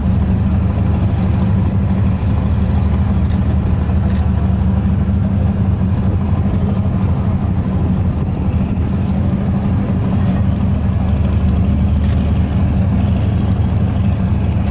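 Large engine running steadily at an even idle, a low rumble, with a few faint clicks on top.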